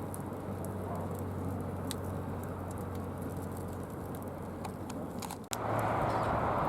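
Wood fire in a Picogrill-style folding fire pit, crackling with scattered sharp pops over a steady rush. About five and a half seconds in the sound cuts off abruptly and a louder steady rush takes over.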